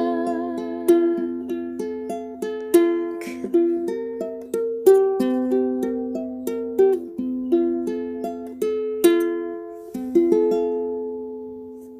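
Ukulele playing a slow melody over plucked chords, each note ringing and decaying. The last chord fades away near the end.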